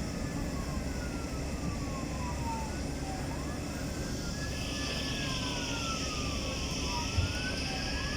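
Sirens of airport rescue and firefighting trucks wailing, at least two out of step, each sweeping quickly up and then slowly down, over a steady low engine rumble. A steady hiss joins about halfway through.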